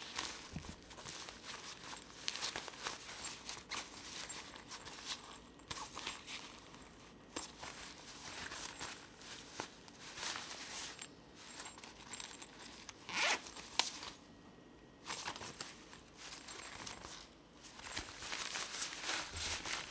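Packaging handled by hand during an unboxing: irregular rustling, scraping and tearing sounds with small clicks, the loudest scrape about two thirds of the way through.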